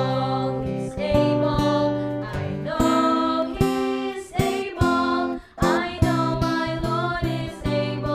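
Music led by a strummed acoustic guitar, in a gentle children's song.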